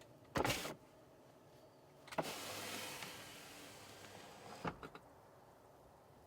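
A vehicle's power window motor running for about two and a half seconds, starting with a sharp click and ending with a couple of small clunks as it stops. A short loud noise about half a second in comes before it.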